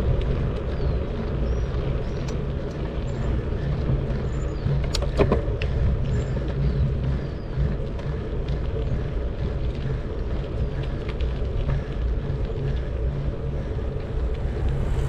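Steady low rumble of wind and tyre noise from a bicycle ride on a paved trail, with a sharp click about five seconds in.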